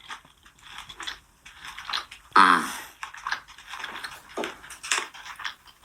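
Close-up chewing and crunching of food, with scattered small clicks and crackles, broken about two and a half seconds in by one short vocal sound that falls in pitch.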